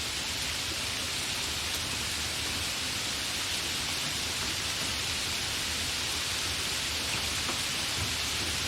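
Steady, fairly heavy rain falling, a constant hiss with scattered drop patter and no thunder.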